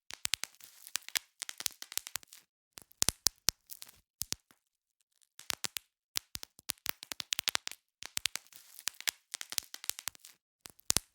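Bubble wrap being popped in irregular clusters of sharp pops, with plastic crinkling between them and a short pause about halfway.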